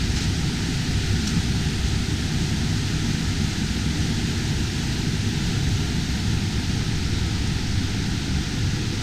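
Steady rushing of the Atysh waterfall, an underground river gushing out of a cave in a powerful jet, its noise heaviest in the low end.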